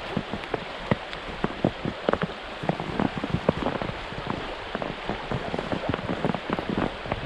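Natural spring water running and splashing over rocks: a steady wash of water with a dense patter of drips and plinks.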